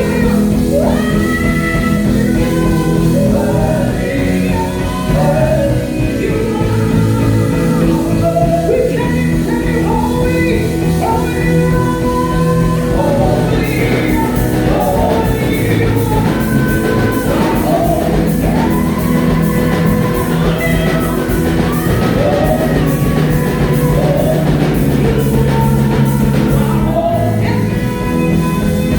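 Live gospel worship music: a band playing steadily under singing voices.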